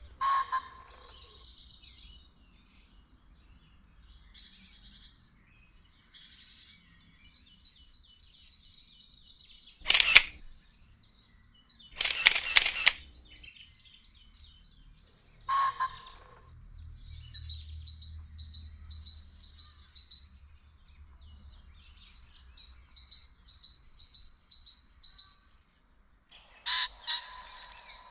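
Small birds chirping and singing in short repeated phrases. There is a loud camera-shutter click about ten seconds in, and a rapid burst of shutter clicks about two seconds later.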